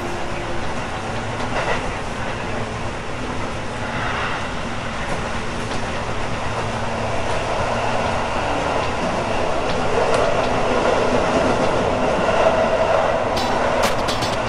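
Electric commuter train on the Tobu Urban Park Line running at speed, its wheels rolling on the rails under a steady low hum. The running noise grows louder in the second half.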